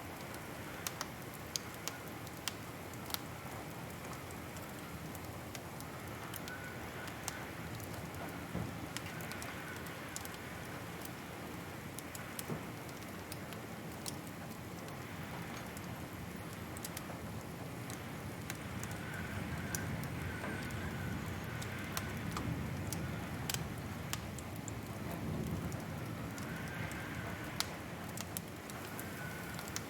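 Wood fire crackling, with scattered sharp pops and snaps at irregular moments over a steady low rush of the flames, which grows a little fuller in the second half.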